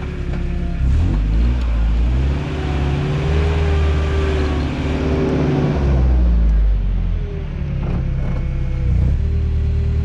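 Toyota truck's engine working on an off-road trail, its revs climbing about two seconds in, easing off around six seconds and picking up again near the end, over a steady low rumble.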